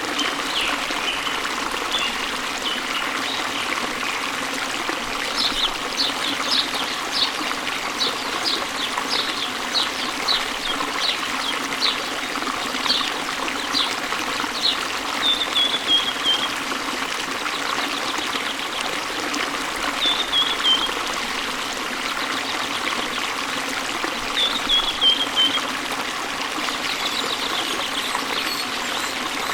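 Steady rushing water of a waterfall spilling into a stream, with birds singing over it: a run of quick repeated chirps, about two a second, through the first half, then three short falling trills a few seconds apart.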